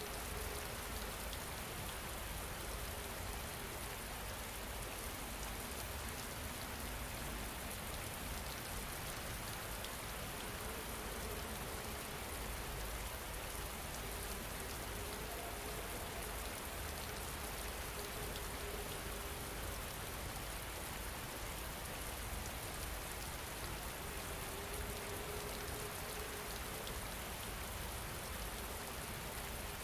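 Steady rain falling, an even hiss of many drops with no pauses, with a faint soft tone rising out of it a few times.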